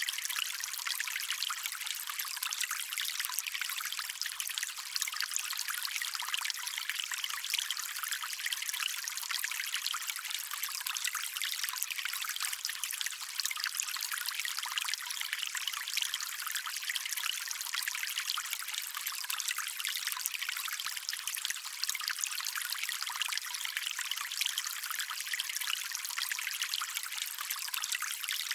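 Small stream trickling and babbling over stones, steady and continuous, with the sound mostly high and thin and almost no low rumble.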